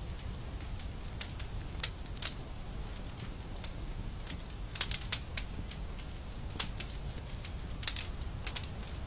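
Wood fire crackling in a fireplace: irregular sharp snaps and pops over a steady low rumble, with a couple of louder pops about five and eight seconds in.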